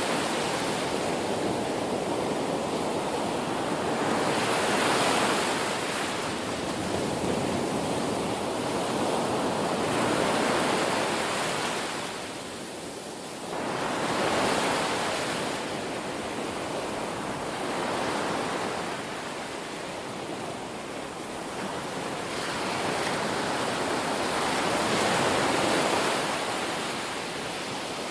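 Ocean waves breaking and washing on a shore, a steady rush of surf that swells and recedes every few seconds, with a brief dip about two-thirds of the way through.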